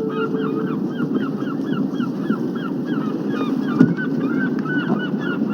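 A flock of birds calling continuously, a dense chorus of short honking calls several a second, with a single knock about two-thirds of the way through.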